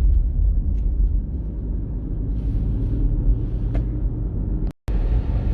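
Steady road and engine rumble inside a moving car's cabin, with a few faint ticks. The sound cuts out completely for a moment near the end.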